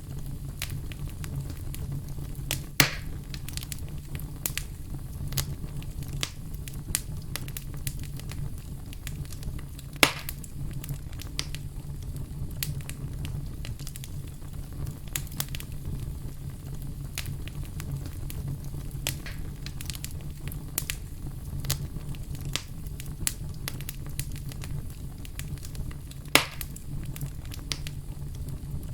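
Wood fire crackling: steady low rumble of flames under frequent small pops, with three louder snaps about 3, 10 and 26 seconds in.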